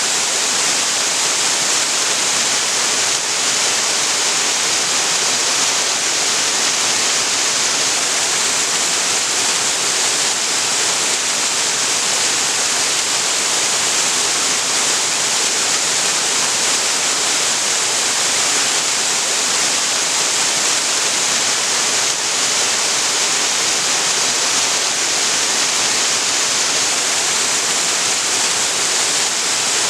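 Waterfall on a creek: a steady, even rush of falling water with a strong high hiss and no change throughout.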